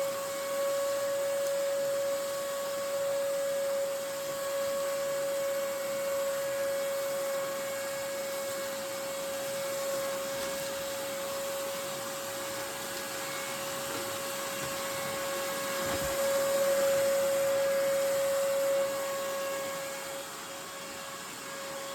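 RIDGID 6-gallon shop vac running steadily with a Hoover WindTunnel canister powerhead on its hose: a steady motor whine over rushing air.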